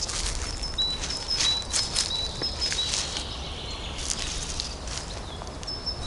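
A songbird singing short, clear whistled notes at two pitches, a higher note and a lower one, repeated over and over, with footsteps crunching through dry leaf litter.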